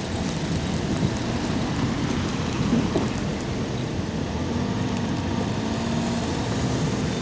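Steady rushing noise of a blizzard, wind and blown snow, mixed with road and traffic noise. A faint engine hum comes in about halfway through.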